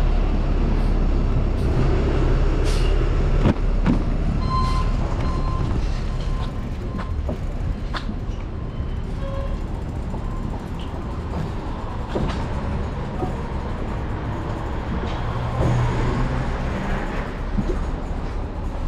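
Wind buffeting a GoPro's microphone while riding a bicycle: a loud, steady low rumble, with scattered light clicks and rattles.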